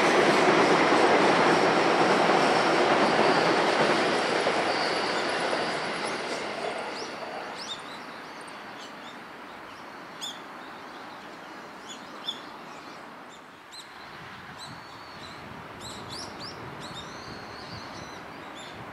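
Electric train running away along the track, its rumble and a thin high wheel squeal fading out over the first several seconds. Birds then chirp in short calls over a quiet outdoor background.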